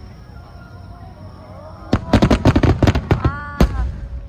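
Fireworks bursting overhead: after a quieter couple of seconds, a rapid string of sharp cracks sets off about two seconds in, with one louder bang near the end.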